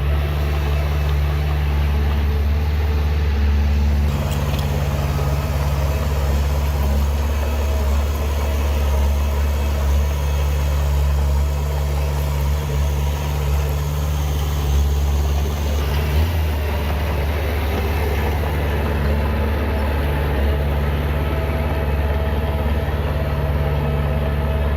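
Heavy diesel earthmoving machinery running steadily with a deep, even engine drone.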